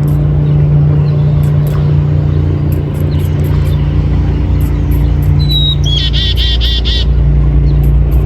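Small bird calling: a short high whistle about five and a half seconds in, then a quick run of about five high chirps. A loud steady low hum runs underneath.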